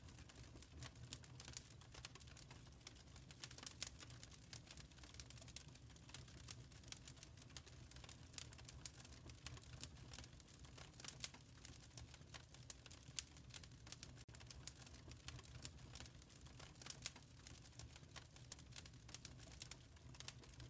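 Wood fire crackling in a fireplace: faint, irregular pops and snaps over a low, steady rumble.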